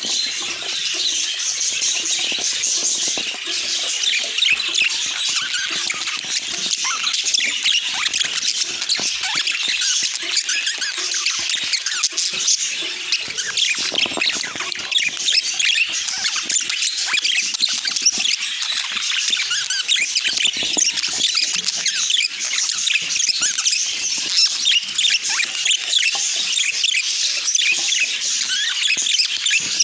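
Budgies (budgerigars) chirping and chattering, a dense unbroken run of quick, high-pitched chirps and squeaks.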